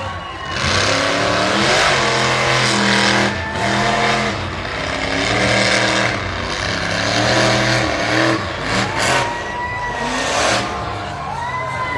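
Monster truck engine revving hard and easing off several times, with bursts of rushing noise as it is pushed.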